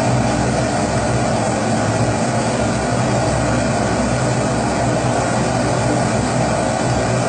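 Kerosene pressure stove (Primus-type babour) burning, its burner giving a steady, even rushing noise.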